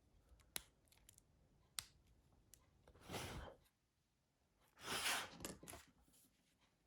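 Two light clicks from handling the small plastic parts of a mobile phone, then two breathy exhales about two seconds apart, the second longer.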